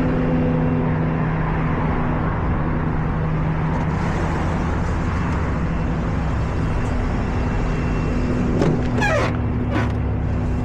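Tow truck's engine running with a steady hum and rumble. Near the end come a few short wavering higher-pitched sounds.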